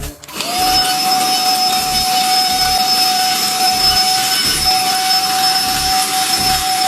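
Cordless handheld car vacuum cleaner (7.4 V, 60 W) switching on about half a second in and running at a steady high whine, sucking up scattered soybeans and instant noodle pieces.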